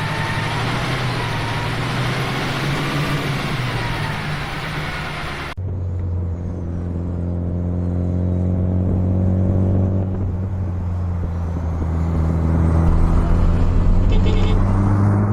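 Dense rushing noise for about five and a half seconds. Then, after an abrupt change, a motor vehicle engine runs steadily, its pitch slowly rising and growing louder.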